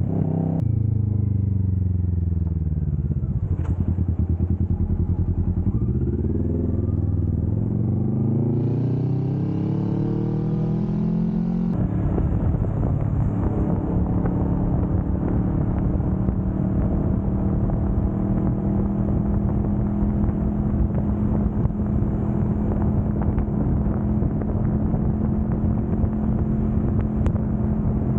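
Kawasaki Vulcan S 650's parallel-twin engine under way: the revs fall for a few seconds, climb again as the bike accelerates, then settle into a steady cruising drone from about twelve seconds in.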